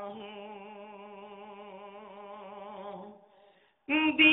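A singing voice in a naat recitation holds one long, wavering hummed note, fading out about three seconds in. After a brief silence the singing comes back loud near the end.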